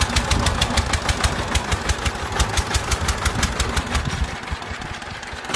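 Diesel walking-tractor (power tiller) engine running with a fast, even knocking beat of about six or seven a second, dropping a little in level near the end.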